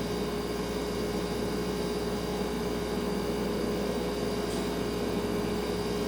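Household refrigerator running: a steady hum with one constant tone over an even low hiss.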